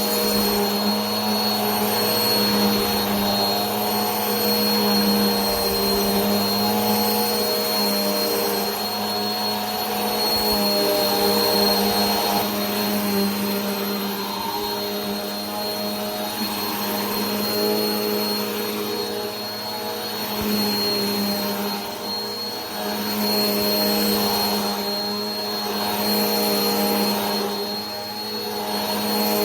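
Vacuum cleaner running continuously: a steady motor hum with a high thin whine and rushing air, swelling and easing slightly every few seconds.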